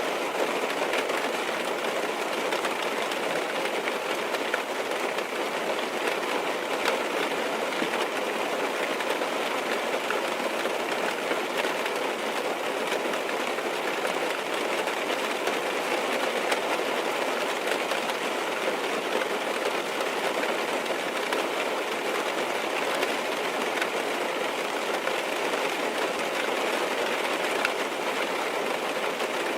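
Steady rain falling on a car, heard from inside the cabin: an even wash of rain with many small drop taps on the roof and windows.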